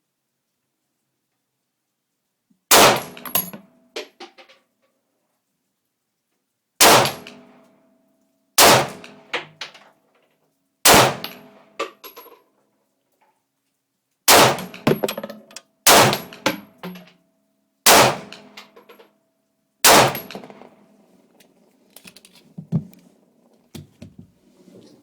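Radom VIS 35 9mm pistol firing eight shots, spaced unevenly about one and a half to four seconds apart, each shot followed by a few lighter metallic clinks. Smaller clicks and clinks near the end.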